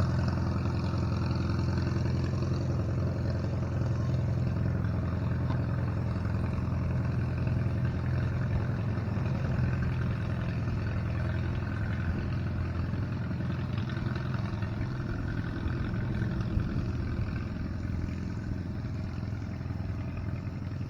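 An engine running steadily at an even, low pitch, slowly growing a little fainter toward the end.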